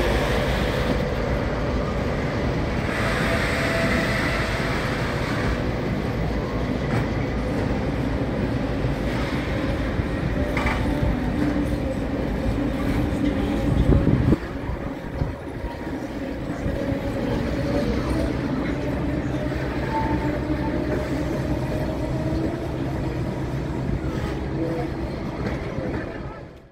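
Heritage passenger carriages rolling slowly past a station platform behind a locomotive-hauled train: a steady low rumble of wheels and bogies on the track, dropping in level about halfway through.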